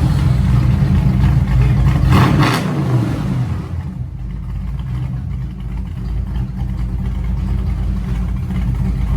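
Ford Mustang 5.0 V8 running with its mufflers deleted: the open exhaust is revved for the first three seconds or so just after start-up, then settles into a steady idle.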